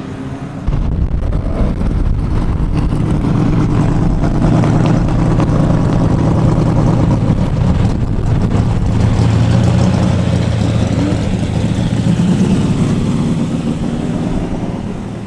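Loud car engine and exhaust close by, coming in abruptly about a second in, running with small rises in pitch, then fading near the end.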